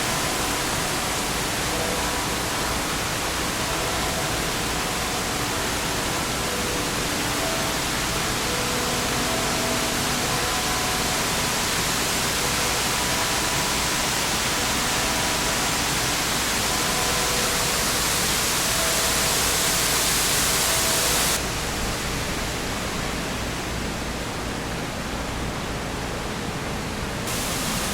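Man-made waterfall, a wall of water falling into a basin, giving a steady rushing noise. About three-quarters of the way through, the highest part of the sound drops away suddenly and it gets a little quieter.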